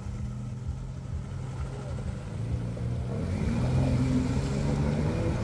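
A four-wheel-drive vehicle's engine running steadily, then revving up about three seconds in and getting louder toward the end.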